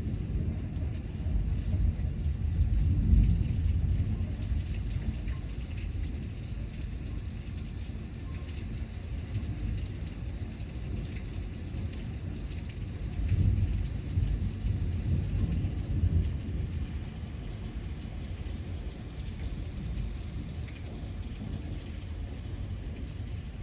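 Heavy thunderstorm: steady rain with low rumbles of thunder that swell about three seconds in and again twice in the middle.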